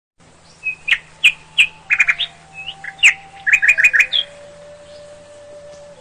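Bird chirping: a string of short, sharp, high chirps and quick rattling runs of notes over about the first four seconds, then it stops.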